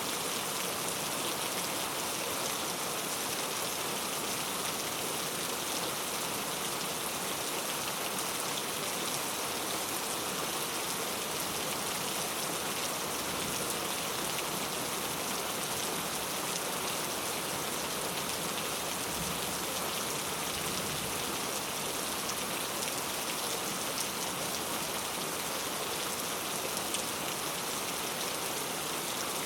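Heavy rain falling steadily on mango tree leaves, a dense even hiss with countless drops pattering on the foliage.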